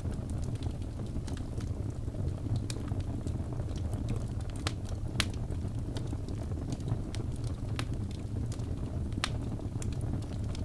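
Wood fire crackling: a steady low rumble with irregular sharp pops and snaps, one louder snap about halfway through.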